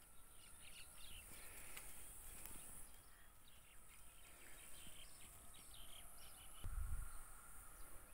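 Faint outdoor ambience with small birds chirping in many short, quick calls over a steady high-pitched hiss. A brief low rumble on the microphone near the end.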